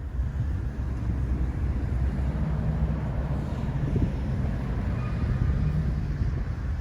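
Uneven low rumble of wind buffeting the microphone on a moving bicycle.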